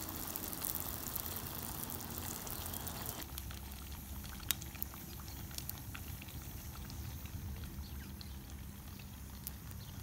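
Tortas fritas sizzling in hot fat in a pan over a wood fire: a steady frying sizzle with many fine pops, and one sharper pop about four and a half seconds in.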